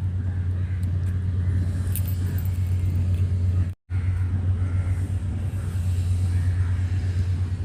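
Steady low rumble of a car's engine and road noise heard from inside the moving car. The sound cuts out completely for a moment about four seconds in.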